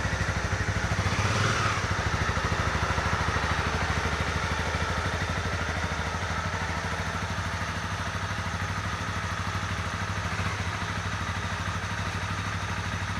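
Honda CB300R's single-cylinder engine idling just after being started, with rapid even firing pulses; it runs slightly faster for the first couple of seconds, then settles into a steady idle.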